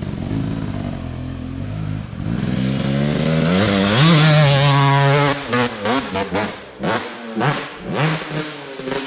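Dirt bike engine at full throttle climbing a hill: the pitch climbs over a couple of seconds, holds flat out for about a second, then breaks into a string of short throttle blips.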